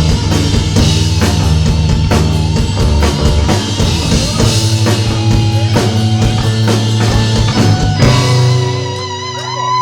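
Live rock band playing with a drum kit, bass and electric guitar. About eight seconds in the drums stop and held notes with a wavering pitch ring on.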